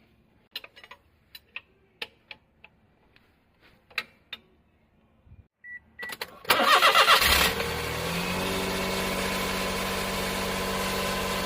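Light clicks and taps and a short beep, then the Daihatsu Hijet Cargo's engine cranks and starts about six and a half seconds in. It runs loud for about a second, then settles into a steady idle. This is the engine the title says has an abnormal noise.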